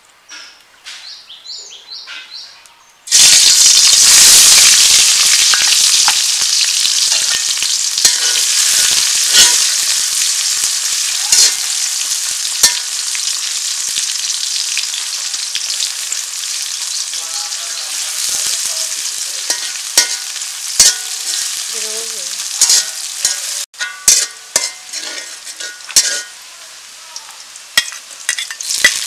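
Sliced onions dropped into hot oil in an aluminium karahi about three seconds in, starting a loud sizzle that slowly settles. A metal spatula scrapes and clicks against the pan as the onions are stirred. Before the onions go in there are only faint bird chirps.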